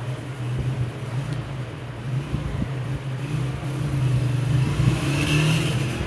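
A motor or engine running with a steady low hum, a little louder in the second half.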